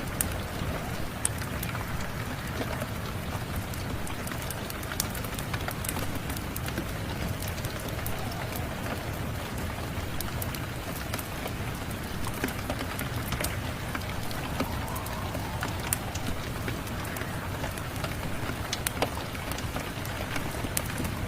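Steady rain with a low rumble, dotted all through with brief sharp crackles and pops from a wood fire.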